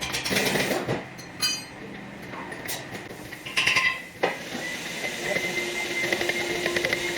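Metal tools and parts clinking and knocking against each other, one knock ringing briefly, then a steady whine sets in from about four seconds in.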